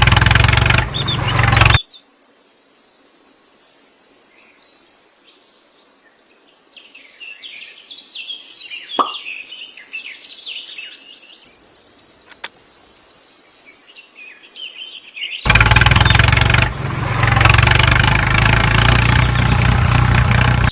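Birds chirping in a quiet stretch, with a thin high trill on and off, set between loud stretches of noise for the first couple of seconds and the last five seconds.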